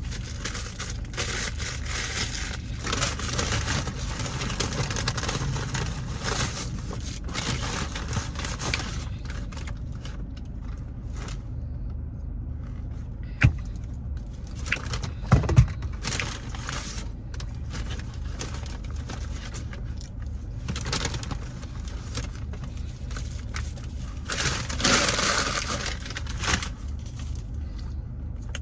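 Steady low rumble of a car heard from inside the cabin, with bouts of rustling and crinkling and a few sharp knocks about 13 and 15 seconds in.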